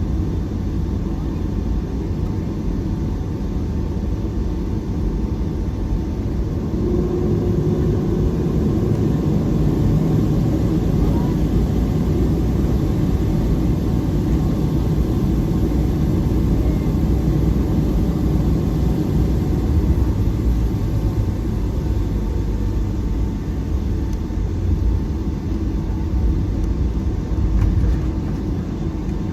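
Steady low rumble inside a Boeing 757-300's cabin as the airliner taxis after landing: engine and airframe noise with a faint steady whine.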